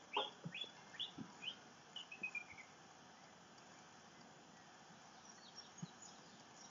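Bird chirping faintly: a run of short chirps falling in pitch over the first two and a half seconds, ending in a quick descending series, then a few fainter, higher chirps near the end.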